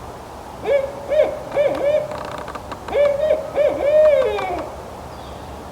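Barred owl hooting its eight-note call, 'who cooks for you, who cooks for you-all': a first group of four hoots, a short pause, then a second group of four ending in a long hoot that falls away.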